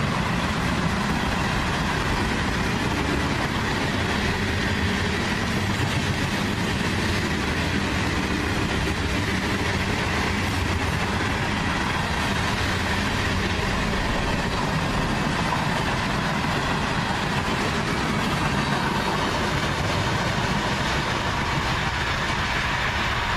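Long freight train's cars rolling past at about 47 mph: a loud, steady noise of steel wheels running on the rails, with a faint steady ringing tone over it.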